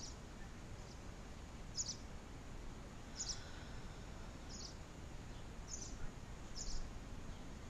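A bird giving short, high chirps, six in all, about a second or so apart, over a steady low background rumble.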